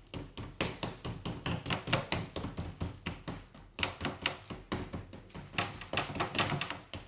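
Rapid, uneven tapping and knocking, about three or four knocks a second.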